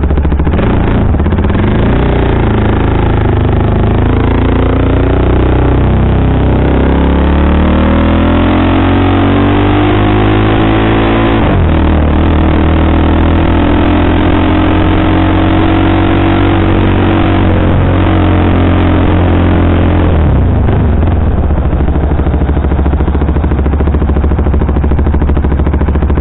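KTM sportbike engine with a Powertronic ECU pulling hard through the gears. Its pitch climbs for about ten seconds, drops at an upshift, climbs again, then drops at a second shift about twenty seconds in and settles into steadier running.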